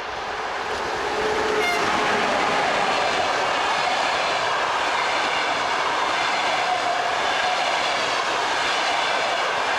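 Passenger train passing close by at speed: a steady rush of wheels and carriages on the rails that grows louder over the first second or so, then holds.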